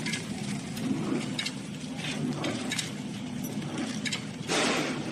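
Round baling machine running: a steady low hum with scattered light clicks and clinks, and a short rushing burst of noise about four and a half seconds in.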